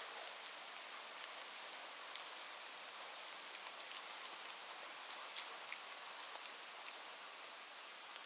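Steady rain falling, an even hiss with scattered sharp drop ticks all through.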